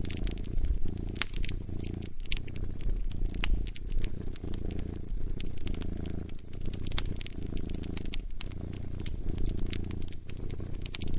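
A cat purring close up, the low rumble swelling and fading in breath cycles of a second or two. Over it a wood fire crackles, with frequent sharp pops.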